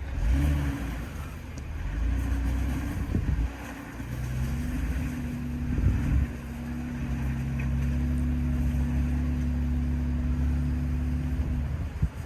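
Jeep engine running under load, its revs shifting up and down for the first few seconds, then holding steady before dropping away near the end.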